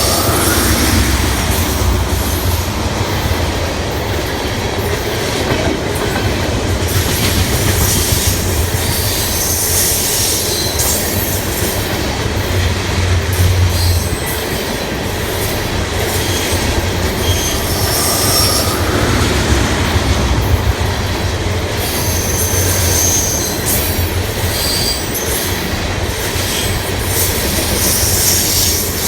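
Freight train of ethanol tank cars rolling past: a steady rumble with wheels clicking over rail joints and several brief high-pitched wheel squeals in the second half.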